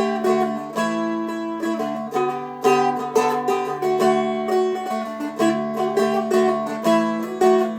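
Seagull Merlin M4, a four-string fretted dulcimer-style instrument, flatpicked: a melody of picked notes, several a second, over open strings ringing steadily as a drone.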